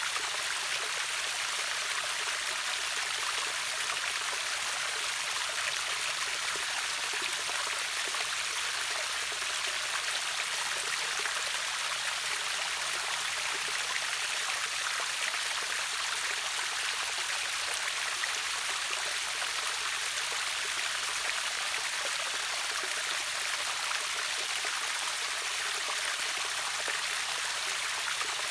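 River waterfall: water rushing steadily with a bright, even hiss and little deep rumble, unchanging throughout.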